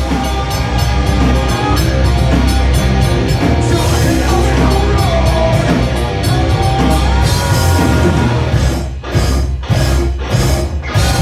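Live rock band playing loud, with drum kit and guitar. Near the end the band cuts out briefly a few times, hitting together between the breaks.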